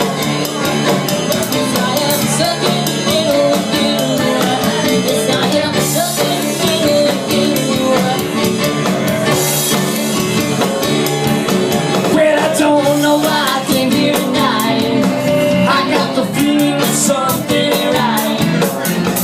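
Rock band playing live at full volume, with a steady drum-and-cymbal beat under guitar.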